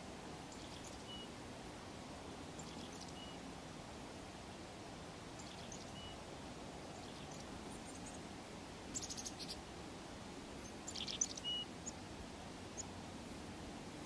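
Small birds calling faintly: scattered short, high chirps, with two louder flurries of chirps about nine and eleven seconds in.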